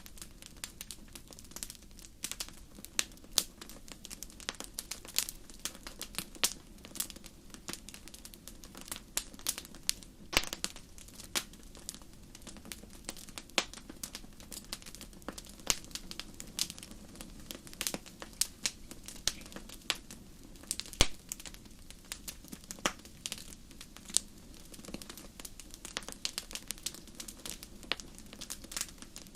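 Wood fire burning in a fireplace: irregular sharp pops and crackles over a low steady hiss of the flames.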